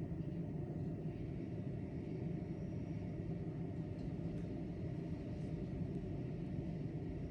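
Steady low rumble of city ambience, with a few faint high ticks about four seconds in.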